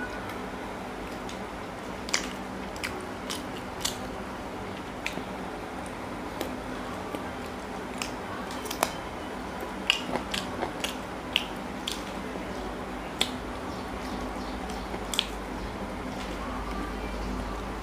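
Close-miked chewing of chicken curry and paratha eaten by hand, with irregular sharp wet mouth clicks and lip smacks. A steady low hum runs underneath.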